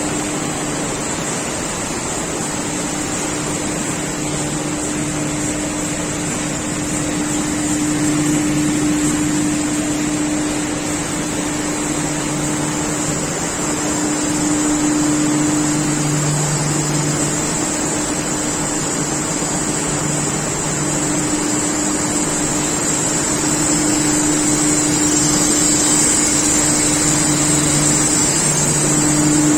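Mezzera open-width textile washing machine (2003 model, three tanks) running: a steady machine hum with a constant low drone and a high hiss over it.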